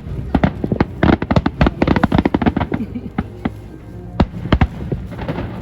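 Fireworks going off in a rapid volley of sharp bangs and cracks, thickest about a second in and thinning out toward the end, with music playing underneath.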